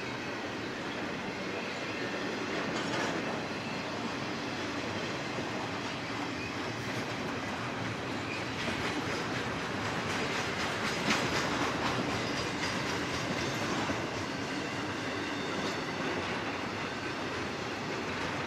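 Double-stack container well cars of a long freight train rolling past, a steady rumble of steel wheels on rail with clattering. The clatter grows louder for a stretch about ten to twelve seconds in.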